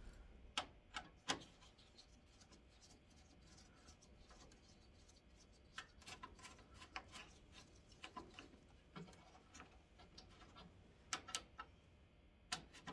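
Scattered light clicks and taps of small screws and plastic fasteners being handled and set down, a few at the start, a cluster about six seconds in and a couple more near the end.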